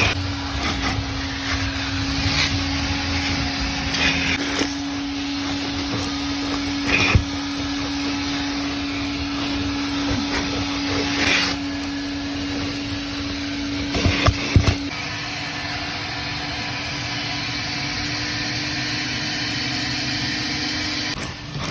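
Coin-operated car-wash vacuum running steadily while a car is vacuumed, with a few short knocks, the loudest cluster about two-thirds of the way through.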